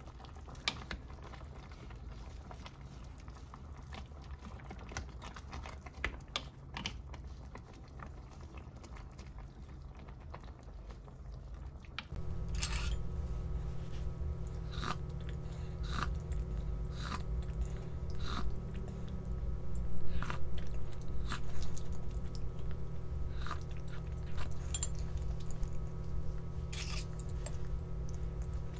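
A person chewing and biting crunchy food close to the microphone, with crisp bites roughly once a second. About twelve seconds in the background changes and a steady low hum sits under the bites.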